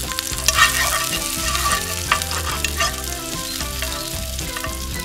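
Garlic and chili sizzling as they are sautéed in oil in a frying pan, with a utensil clicking and scraping against the pan as it stirs.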